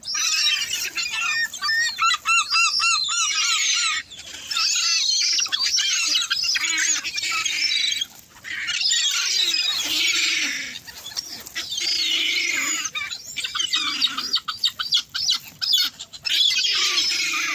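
A flock of gulls calling together: many harsh, high calls overlapping, with a quick run of repeated notes about two seconds in, as the birds crowd in to be fed.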